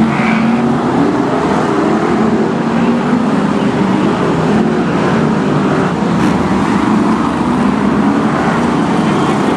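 A pack of BriSCA F1 stock cars' V8 engines running hard together around the track: a loud, continuous engine noise whose pitch wavers up and down as the cars accelerate and lift.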